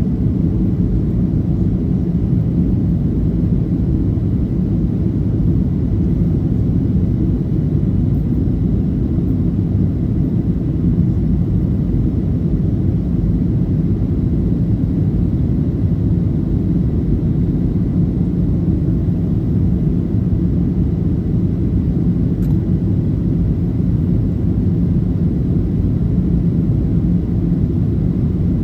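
Steady low cabin rumble inside a Boeing 737-800 on approach, with a faint steady hum running through it.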